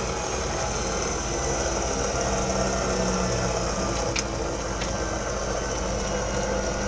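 Powered hoist of a home-built gin pole crane running steadily as it takes up load.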